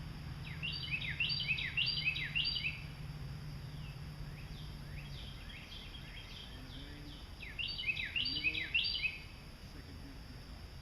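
A songbird sings two quick bursts of repeated, falling chirps, one early on and one about eight seconds in. A steady low hum sits underneath and stops about halfway through.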